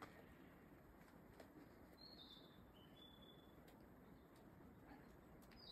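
Near silence with a faint background hiss and a few faint clicks. A bird sings a short phrase of high notes, a falling note followed by two brief level ones, about two seconds in, and starts it again at the very end.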